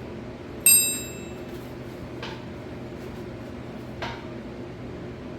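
A single sharp metal-on-metal clink that rings briefly, from steel tools or parts knocked together during the pin removal, followed by two much fainter knocks, over a steady low hum.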